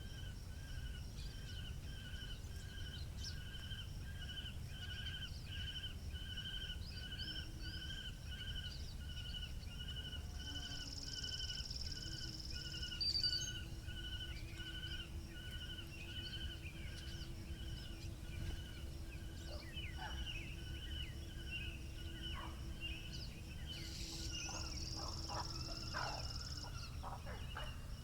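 Rural outdoor ambience: low wind rumble under an evenly repeated pulsing call, about three pulses a second, with a faint steady hum and scattered bird chirps that grow busier in the second half.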